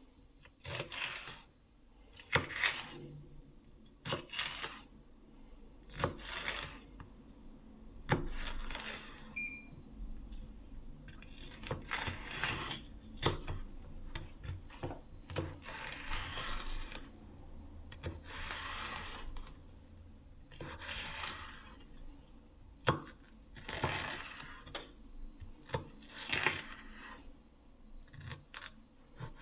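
Kitchen food-preparation handling sounds: irregular rustling and tearing swishes mixed with sharp clicks and knocks of items being handled and set down. A short electronic beep comes about a third of the way in.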